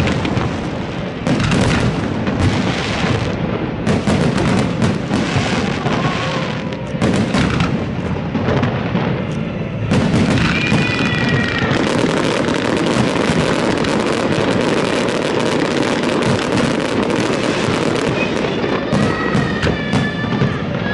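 Fireworks display going off continuously, a dense stream of bangs and crackling bursts layered on one another. Shrill whistling tones rise out of it about halfway through and again near the end.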